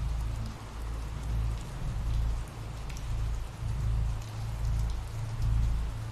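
Recorded ambient rain: steady rain with scattered drops ticking, over a low rumble that swells and fades about once a second.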